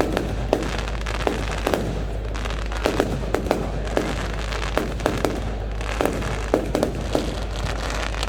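Fireworks going off: a run of sharp bangs at irregular spacing, about two a second, over a steady low rumble.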